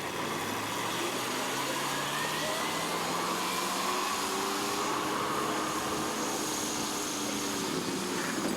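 Pulling tractor's engine running hard at high revs, its pitch climbing over the first few seconds and then holding steady.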